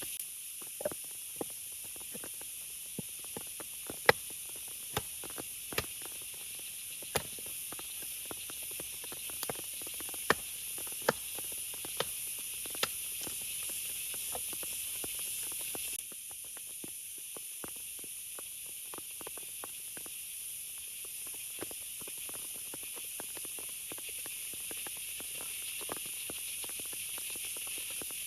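Steady hiss of rain, with heavy drops tapping sharply and irregularly. The hiss changes abruptly about sixteen seconds in.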